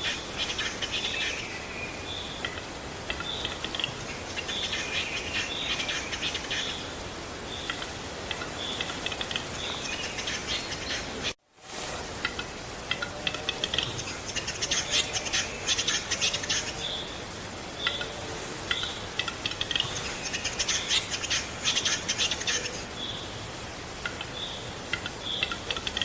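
A small songbird chirping and singing in repeated short, high notes, with denser bursts of song every few seconds. The sound cuts out completely for a moment about 11 seconds in.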